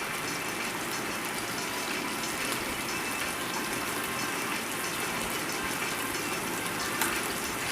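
Chicken pieces shallow-frying in oil in a pan, a steady sizzle. There is a small click about seven seconds in.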